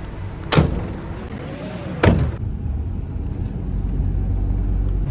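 Steady low rumble of a bus on the move, with two sharp thumps about a second and a half apart.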